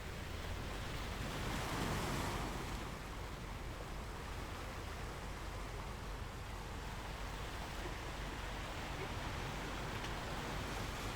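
Sea waves washing onto a shore, a continuous surf with a slight swell about two seconds in.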